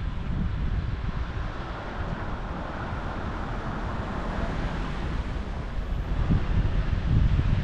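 Wind buffeting a bicycle-mounted action camera's microphone while riding, a low rumble that grows stronger near the end, with a steady hiss of passing air and traffic that swells in the middle.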